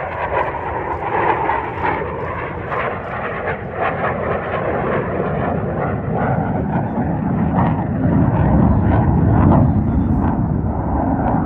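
HAL Tejas fighter jet's single turbofan engine in a display flight, a continuous jet rumble that grows louder about eight seconds in.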